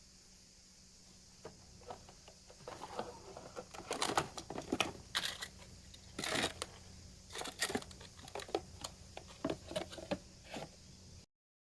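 Irregular clicks, taps and rustling of things being handled, busiest in the middle, over a faint steady hum; it cuts off suddenly near the end.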